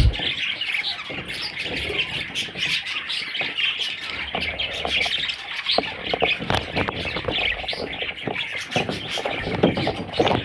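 A group of budgerigars, chicks among them, chattering and squawking without a break: a dense overlap of raspy calls and chirps, with scattered short clicks and scratches.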